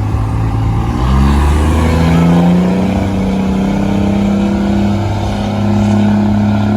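A vehicle engine revved up about a second in and held at high revs, with a brief dip and rise again near the end.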